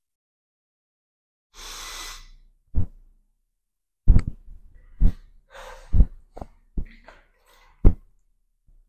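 A long, breathy exhale, then a run of sharp, low thumps, about seven of them over some five seconds, with faint breathing between them.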